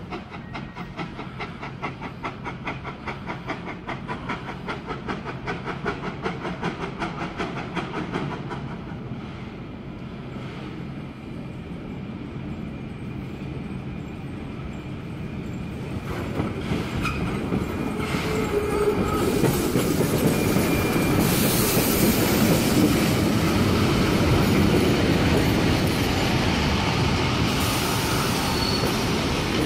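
Steam-hauled heritage train led by NSW 30 class tank locomotive 3016 approaching and passing close by. A fast, even beat of about three a second in the first several seconds fades away. From the middle onward a rumble and clatter of carriage wheels on the rails builds, with faint flange squeal, and is loudest as the red carriages go past near the end.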